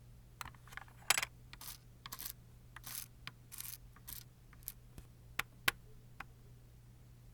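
A run of small clicks and short scratchy strokes from hands handling nail-art tools and nails: about a dozen, some brief rasps, the loudest about a second in, with sharp single clicks near the end.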